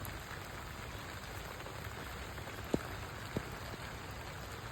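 Steady rain falling, with two short faint ticks a little past the middle.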